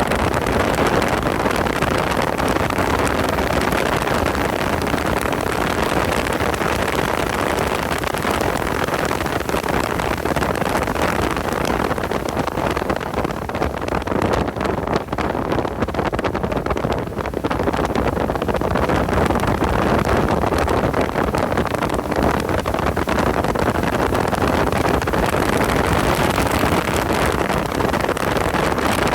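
Car engine running hard at track speed, heard onboard, with wind buffeting the microphone. The level dips briefly about halfway through, then comes back up.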